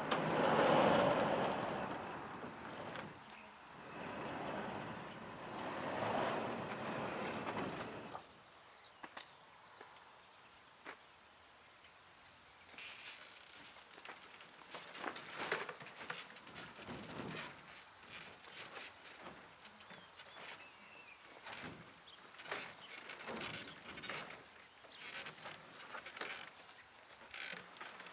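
Outdoor ambience of insects, crickets or the like, calling steadily with an even high pulsing. Three swells of rustling noise fill the first several seconds, and after that come scattered light taps and scratches.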